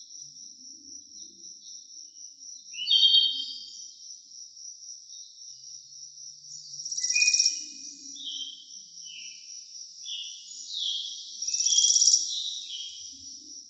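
Forest birds singing short falling phrases, with louder buzzy bursts about three, seven and twelve seconds in, over a continuous high, pulsing insect trill.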